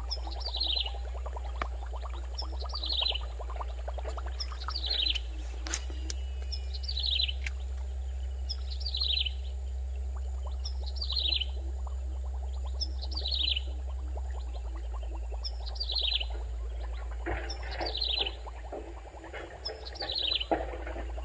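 A bird calling over and over: a short, high, falling trill repeated very evenly about every two seconds, over a steady low hum.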